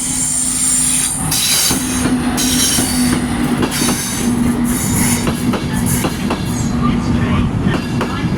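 A train moving over the rails with its wheels squealing on and off, over a steady low hum. Wheels clack over rail joints in the second half.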